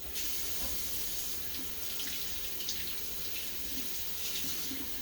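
Kitchen sink tap running in a steady rush of water, turned on right at the start, with a few light knocks of a dish being rinsed under it.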